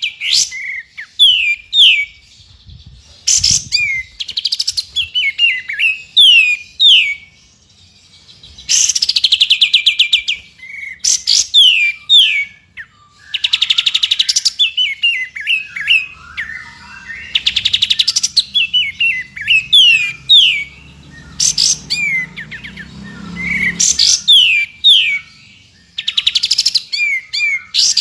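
Songbird song from a bird-training (masteran) track that mixes three species. Fast rattling trills about a second long alternate with quick series of clear down-slurred whistles, and the pattern repeats every few seconds.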